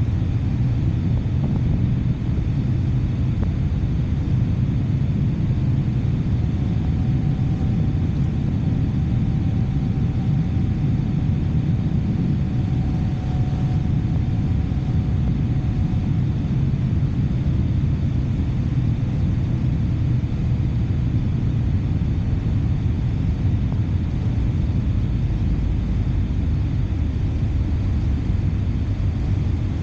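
Steady low rumble of a motorcycle on the move, its engine and rushing air blending into an unbroken drone. A faint thin whine rises above it for several seconds in the middle.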